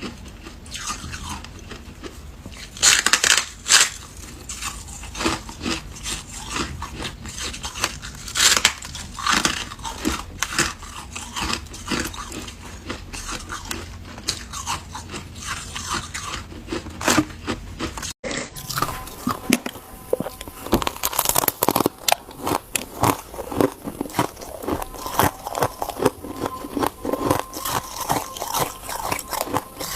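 Ice being bitten and chewed: a run of irregular, crisp crunches. There is a momentary break a little past halfway, after which the crunches come faster.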